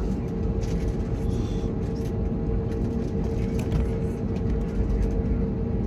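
Steady cabin noise aboard an Airbus A321neo: a continuous low rumble with a constant mid-pitched hum over it, and a few faint light clicks.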